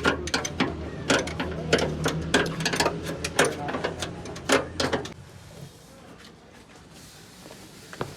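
Metal hand tools clicking and knocking against engine parts in quick, irregular strokes over a low hum for about five seconds, then only faint workshop background.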